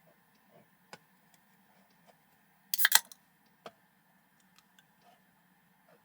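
Scattered sharp clicks and light knocks, with a quick loud cluster of clicks about three seconds in, over a faint steady hum.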